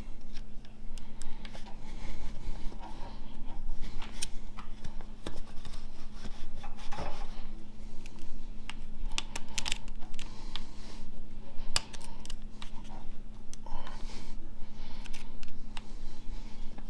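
Hand tools working on an automatic transmission during teardown: scattered clicks, clinks and scraping of metal parts, over a steady low hum.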